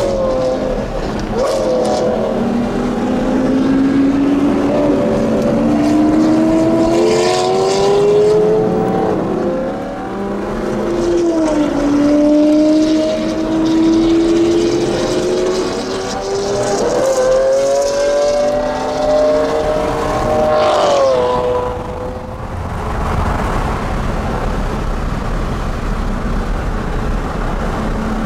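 Supercar engine accelerating hard through the gears. Its pitch climbs and drops back at each upshift, four or five times. After the last shift it settles into a steadier rushing sound.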